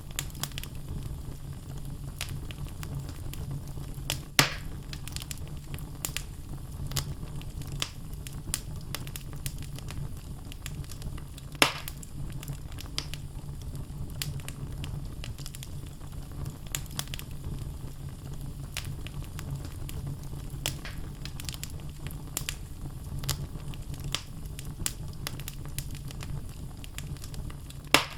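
Wood logs burning in a fireplace: constant crackling over a steady low rumble of flames, with a few louder pops, the loudest about twelve seconds in.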